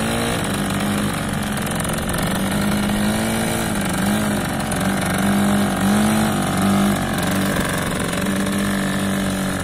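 Motorcycle engine running, its pitch rising and falling several times as the throttle is worked.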